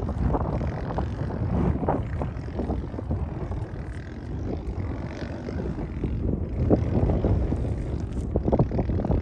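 Dirt bike engine running on a trail, with wind buffeting the microphone. It eases off a little a few seconds in and picks up again near the end.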